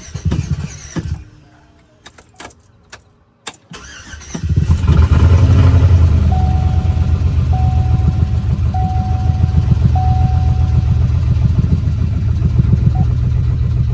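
A car engine is cranked briefly, then catches about four seconds in and keeps running with a loud, pulsing, shaking idle. A warning chime beeps four times while it runs.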